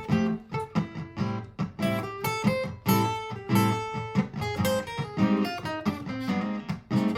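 Martin GPCPA4 acoustic-electric guitar playing a fast, busy line of picked notes mixed with strummed chords, one attack after another with no singing.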